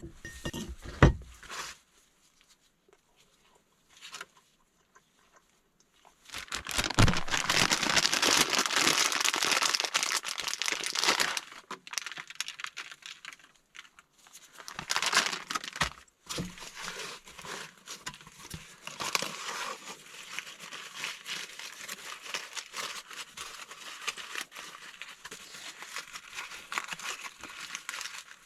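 Aluminium foil crinkling and rustling as it is handled and folded into a foil pack, loudest for several seconds a quarter of the way in, then a shorter burst and lighter crinkling.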